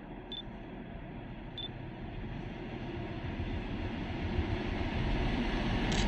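FS D445 diesel-electric locomotive hauling a special train, approaching with a low engine and rail rumble that grows steadily louder. Two brief high chirps sound in the first two seconds.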